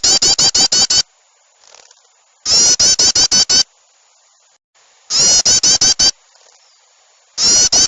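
Bird-lure recording of agitated small birds mixed with sooty-headed bulbul calls: a loud burst of about seven rapid, harsh notes, repeated identically about every two and a half seconds, with faint chirps in the gaps.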